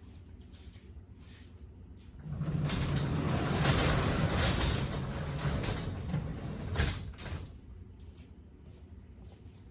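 A loud mechanical noise starting suddenly about two seconds in and lasting about five seconds, with a sharp knock near its end.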